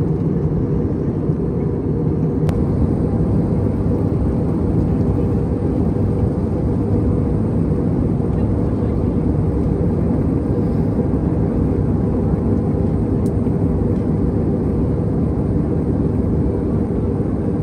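Steady low rumble of an Airbus A320's engines and airflow heard inside the passenger cabin in flight, with a couple of faint clicks.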